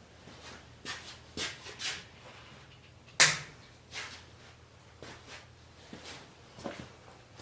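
A series of short knocks and rustles from objects being handled, with one sharp, loud knock about three seconds in.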